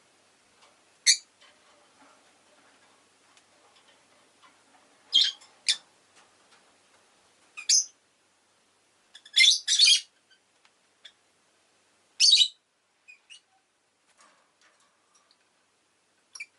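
Rosy-faced lovebird giving short, sharp high-pitched chirps, singly and in quick pairs, at irregular gaps of one to three seconds.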